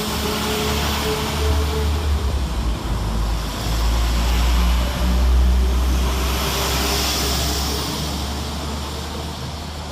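Class 172 Turbostar diesel multiple unit running through the station with its underfloor diesel engines rumbling. It builds to its loudest about five seconds in, then slowly fades.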